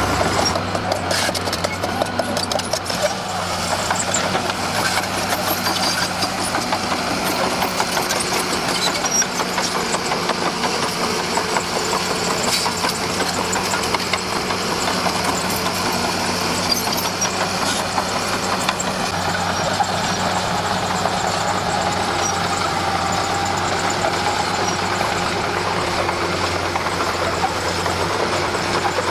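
Komatsu D41P crawler bulldozer's diesel engine running steadily, with a fast rattle over it.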